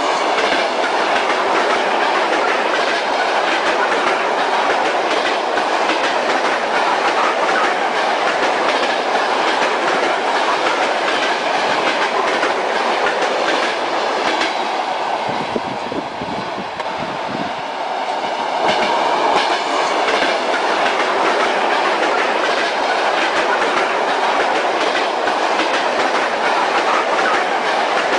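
Train ride heard from aboard a railway carriage: steady rumble and rush of the moving train with the repeated clickety-clack of wheels over rail joints, easing briefly about halfway through.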